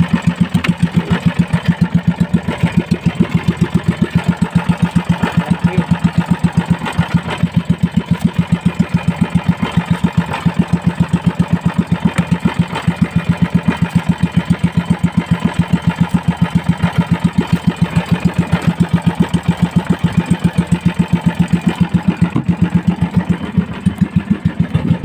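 Small fishing-boat engine running steadily, an even rapid putter with no change in speed.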